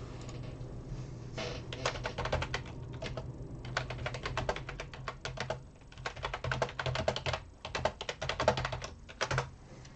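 Typing on a computer keyboard: quick runs of keystrokes broken by short pauses, over a low steady hum.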